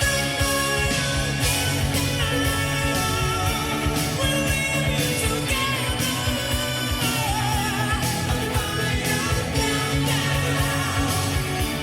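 Rock song with singing and guitar playing through a custom car audio system with Technics tweeters and FaitalPRO midrange and midbass speakers, heard inside the car's cabin.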